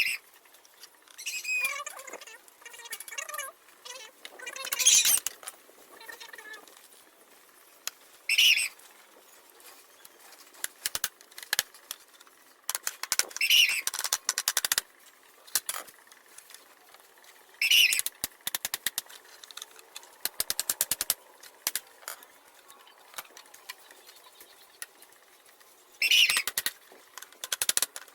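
Plastic from cut-up bottles being handled and fitted by hand: scattered clicks and scrapes with quick runs of rattling clicks, and a few short, bright, noisy bursts.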